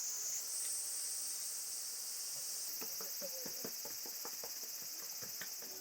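Insects singing in a steady high chorus whose pitch steps up twice. In the second half there is a run of light clicks and crackles.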